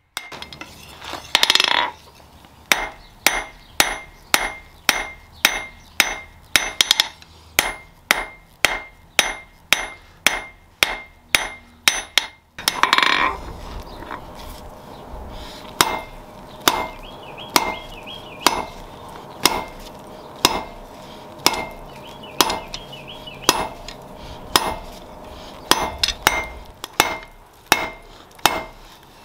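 Hand hammer striking hot steel on an anvil in a steady rhythm of about two ringing blows a second. A brief rushing noise comes about a second and a half in and again about halfway through, and a faint steady hum sits under the blows in the second half.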